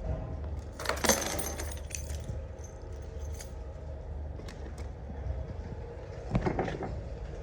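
Small metal objects jangling and clinking in two short bursts, about a second in and again near the end, over a low steady rumble.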